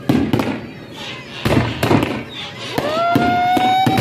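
Consumer fireworks going off in a string of sharp bangs and pops. Near the end a long high tone rises and holds over the bangs.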